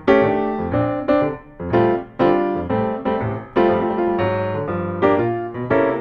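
Background music: a piano playing a run of chords, each struck and left to fade before the next.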